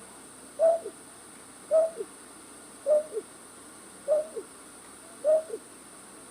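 A night bird's lure call played from a recording: an owl-like two-note hoot repeated about once a second, five times. Each call is a clear hoot followed by a short, lower falling note, over a steady faint hiss.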